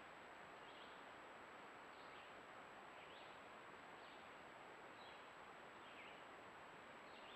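Near silence from a trail camera's microphone: a steady hiss and a thin high electronic whine, with faint short chirps about once a second.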